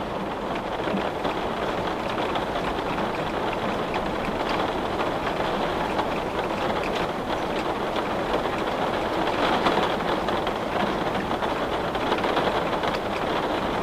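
Steady rain falling, heard against a window: an even hiss with many small drop ticks scattered through it.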